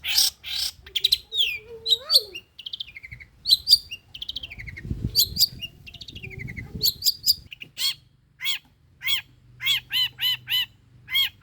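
Long-tailed shrike (pentet) singing: a string of quick varied chirps and down-slurred whistles, then near the end a run of repeated arched, harsh notes at about two to three a second.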